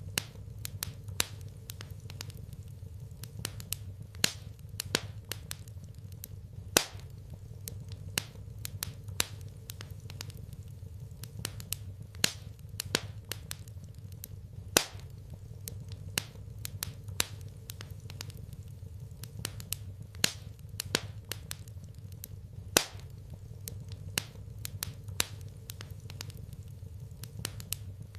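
Wood fire crackling in a fireplace: irregular sharp pops and snaps of varying loudness, several a second, over a steady low rumble.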